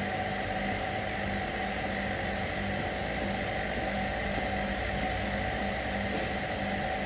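A motor running steadily, its low hum beating about twice a second.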